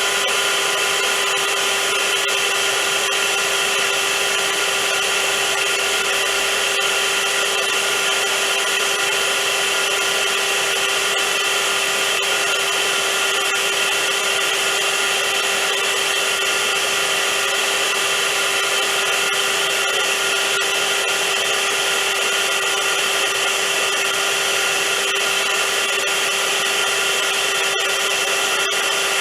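Vacuum cleaner running steadily: an even rushing noise with a constant whine, unchanging throughout.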